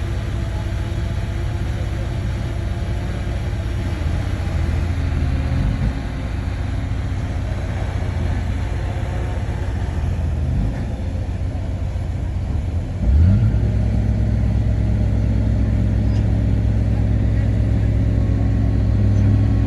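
Heavy diesel engine of a bulldozer running steadily, then revving up about thirteen seconds in and holding at the higher engine speed.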